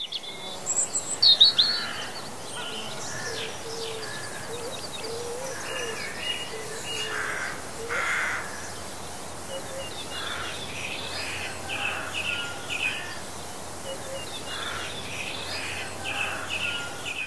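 Birds chirping and calling in a busy chorus of short, high chirps and trills, loudest about a second in, over a steady background hiss. It cuts off abruptly at the end.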